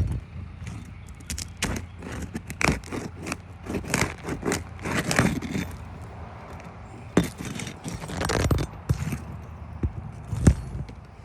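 Roof shingles being pried and worked loose: an uneven run of scraping and crackling strokes with a few sharp knocks, as the stiff shingle cracks and tears instead of lifting cleanly.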